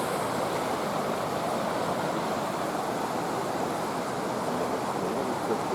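Flooded river rushing, a steady, even roar of fast water.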